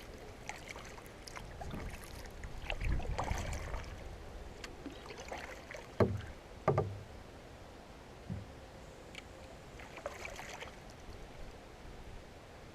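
Knocks and scraping on a solo cedar-strip canoe as it is handled. Two sharp, loud knocks come about six seconds in, with a smaller one a couple of seconds later.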